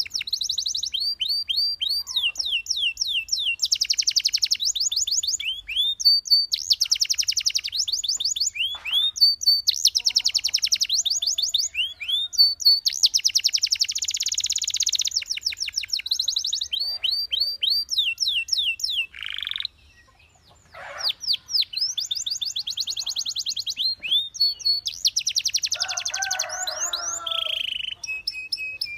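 Belgian canary singing a long song of fast trills, phrases of rapidly repeated high notes and quick sweeping notes, with one brief break about twenty seconds in.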